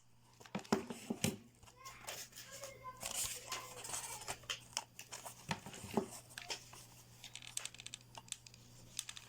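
Light handling noise of a plastic bottle and a cardboard box: crinkling plastic with scattered short clicks and taps.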